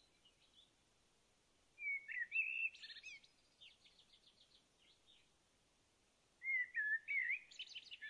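A songbird singing: two short warbled phrases a few seconds apart, the first trailing off into a quick run of evenly spaced notes.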